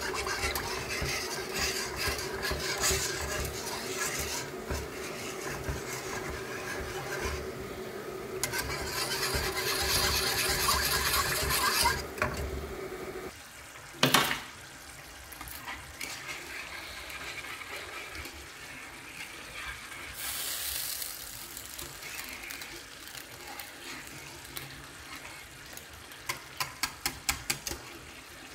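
Kitchen work sounds: water and pots and utensils being handled, with a steady hum under a rushing noise that stops about halfway through. A single sharp knock follows just after, and a quick run of about eight clicks comes near the end.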